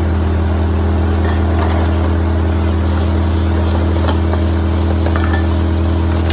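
Ford 8N tractor's four-cylinder flathead engine idling steadily, running again after sitting for two years. A few faint light clicks are heard over it.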